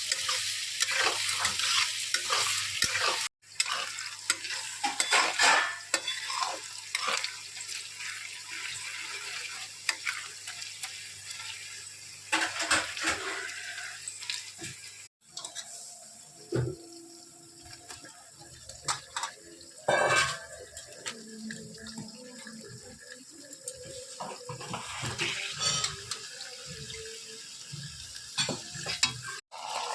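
Kitchen cooking sounds: a metal pot and utensils clattering and stirring, with water sloshing and some sizzling. The sound breaks off abruptly twice, about three seconds in and midway.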